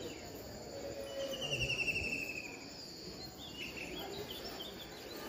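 A bird's fast trill, falling slightly in pitch and lasting about a second and a half, starting about a second in, followed by a few short chirps over faint outdoor background noise.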